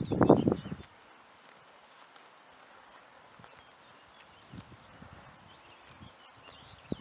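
Crickets trilling steadily in a high, even pulse. About the first second, a gust of wind buffets the microphone with a low rumble.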